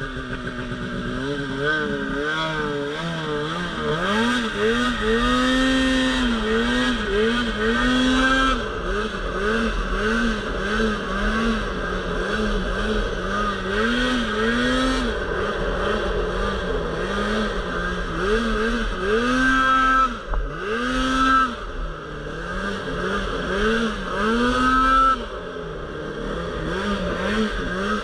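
Polaris RMK Pro 800 snowmobile's two-stroke twin engine revving up and down in repeated surges, about once a second, as the throttle is worked through deep powder.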